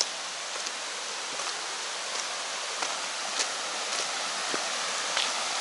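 Steady rushing of water from a mountain stream and waterfall, growing slightly louder toward the end, with a few faint scattered clicks.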